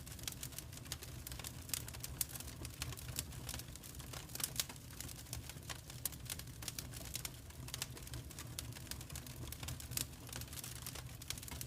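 Wood fire crackling: irregular sharp pops and snaps of burning logs over a low steady rumble of the flames.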